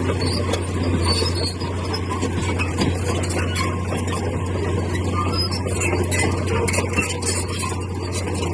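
Bulldozer at work: its diesel engine runs at a steady low drone, with scattered short clicks and clatter over it.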